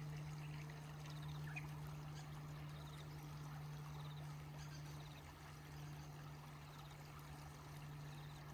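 River water trickling and running gently, with a faint steady low hum underneath.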